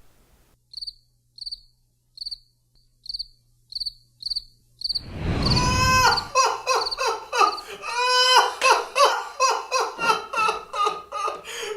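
Cricket chirps, short and evenly spaced, the classic silence-after-a-joke gag. About five seconds in they give way to a low thud and then loud, high-pitched vocal cries that run on to the end.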